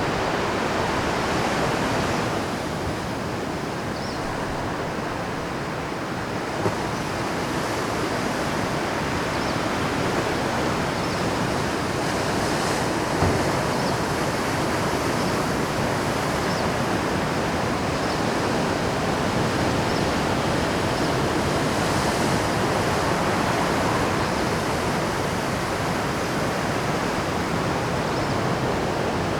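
Rough Pacific surf at high tide breaking on a rocky shore: a continuous rush of crashing waves that swells and eases. Two brief sharper hits come about seven and thirteen seconds in.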